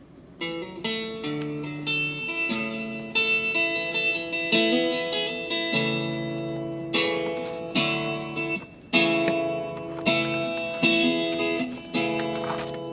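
Acoustic guitar intro to a country-style song: plucked and strummed chords, each note struck sharply and ringing out, starting about half a second in.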